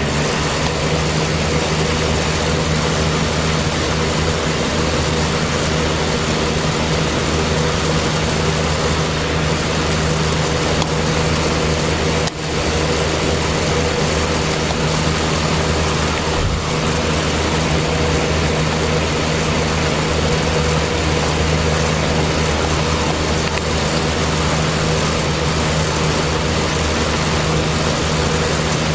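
Mid-1960s Corvair box fan running steadily at full speed: an electric motor hum under the rush of air from its aluminium blades, with a brief dip about 12 seconds in.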